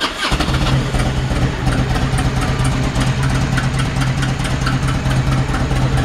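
2002 Harley-Davidson Ultra Classic Electra Glide's fuel-injected Twin Cam 88 V-twin catches about a third of a second in as the starter cranks, then idles steadily.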